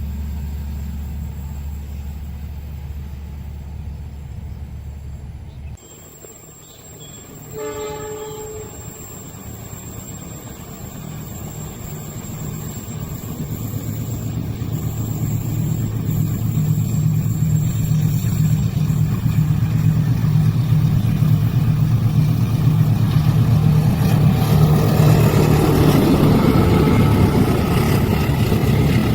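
A steady low engine hum stops about six seconds in. About two seconds later a train horn sounds once, briefly. A train's rumble then builds steadily louder as it approaches.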